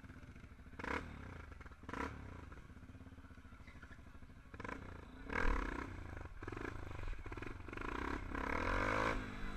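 Motorcycle engines running at a gathering of bikes, with a steady low rumble, two sharp knocks about one and two seconds in, and louder engine sound building over the second half.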